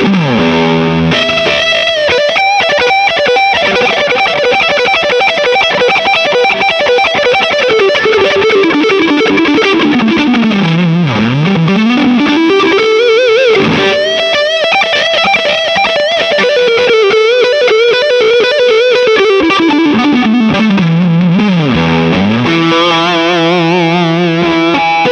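Distorted electric guitar playing a fast lead solo of minor pentatonic licks, with quick runs down and back up the neck, ending on held notes with wide vibrato.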